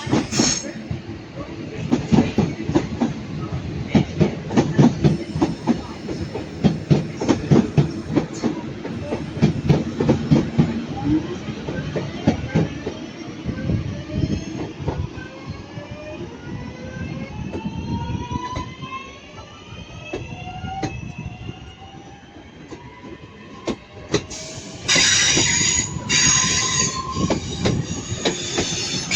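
Class 323 electric multiple unit pulling away: its wheels clatter over rail joints and points, then the traction motors whine upward in pitch, several tones rising together as the train accelerates. About 25 seconds in a loud, high-pitched wheel screech starts.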